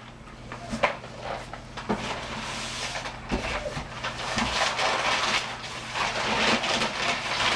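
Wrapping paper rustling and crackling as a wrapped package of books is handled and unwrapped, with scattered sharp crinkles and small knocks.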